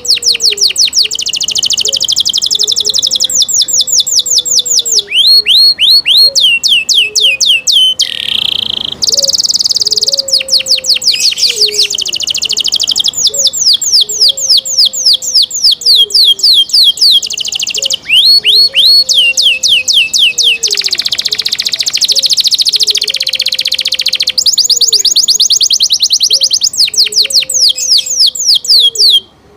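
Domestic canary singing a long, loud song of rapid trills: runs of quickly repeated high notes at changing speeds, broken by a few short pauses.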